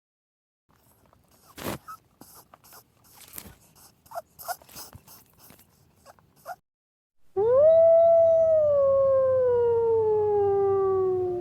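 Faint scattered clicks and rustles, then about seven seconds in a wolf's single long howl. It rises quickly and then slides slowly down in pitch for about four seconds.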